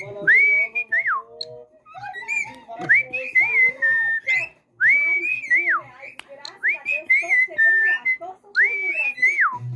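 Cockatiel whistling a repeated tune: about five clear whistled phrases, each rising and then falling, with short pauses between them.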